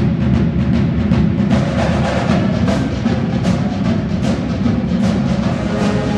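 High school marching band playing a stand tune at full volume: brass over a drum line keeping a steady beat.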